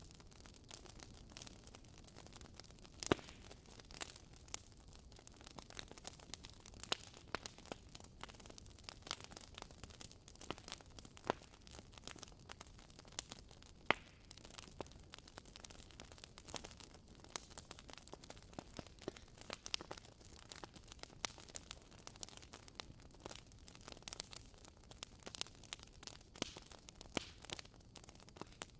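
Wood fire burning in a fireplace, crackling: many irregular sharp pops and snaps over a faint steady hiss, with a louder snap about three seconds in and another about halfway through.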